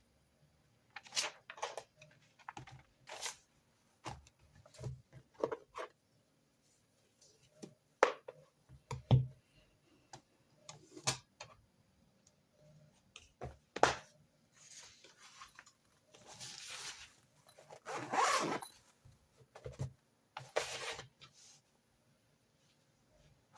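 Stationery being handled on a desk: a series of sharp clicks and knocks, with a few longer scraping, rasping strokes in the latter half.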